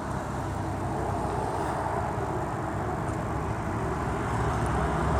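A steady low rumble, growing slowly louder, with no sharp bang.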